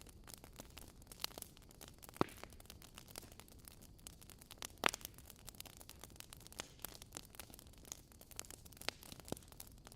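Wood fire crackling: irregular sharp pops and snaps over a faint hiss, with two louder pops about two and five seconds in.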